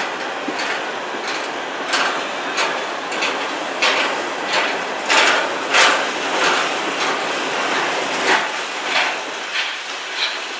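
Freight cars of a CN manifest train, mostly empty bulkhead flatcars, rolling past with a steady rumble of wheels on rail. Over the rumble comes a regular run of sharp metallic clanks, about one and a half a second, loudest around the middle.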